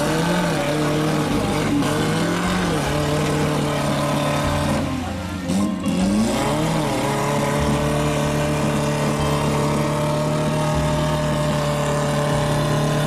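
Off-road 4x4 engine revving, its pitch dipping and rising around the middle and held steady for long stretches, over background music.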